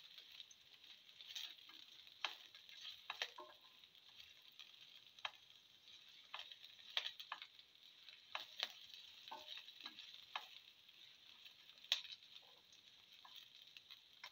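Faint sizzling of garlic cloves and shallots frying in a little oil, with a spatula scraping and tapping against the pan at irregular moments.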